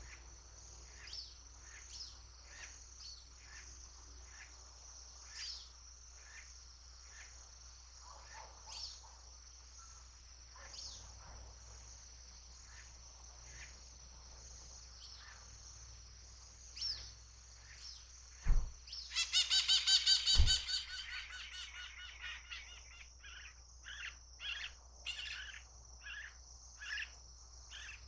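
Birds chirping over a steady high-pitched insect drone. About two-thirds in, a loud rapid pulsing bird call lasts around two seconds, with two low thumps, and is followed by a run of quick repeated chirps.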